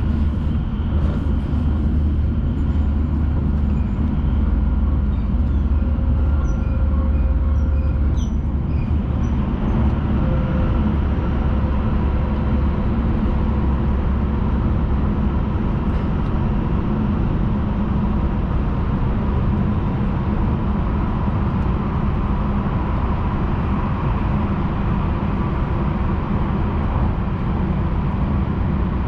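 Cabin noise of a Hayabusa Shinkansen running at speed, heard from inside the passenger car: a steady, loud low rumble of wheels and running gear, with a faint steady hum above it.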